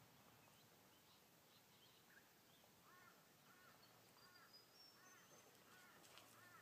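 Faint bird calls over a quiet background hiss: from about three seconds in, a series of short arched calls repeats about twice a second, with a brief run of high chirps rising in pitch partway through.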